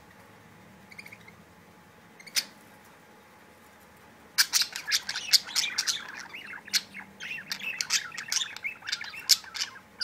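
Budgerigars chattering and squawking: a faint chirp and one sharp call in the first few seconds, then from about halfway in a busy stream of rapid, sharp calls and warbling.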